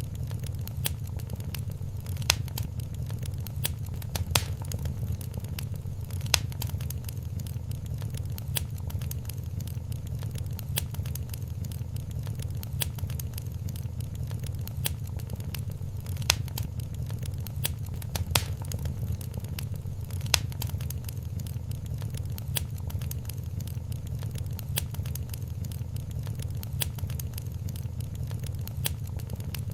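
Wood fire in a fireplace crackling, with frequent small pops and occasional sharper snaps over a steady low rumble.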